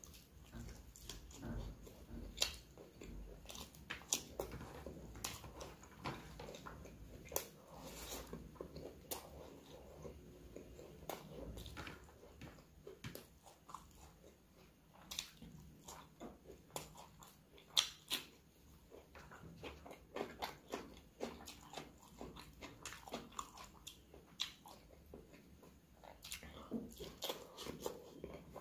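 Close-miked wet chewing and smacking of a man eating rice and curry by hand, with irregular sharp mouth clicks; the loudest smack comes a little past the middle.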